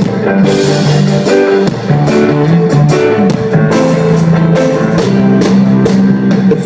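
Rock band playing an instrumental passage: guitar over a drum kit, with regular drum hits throughout.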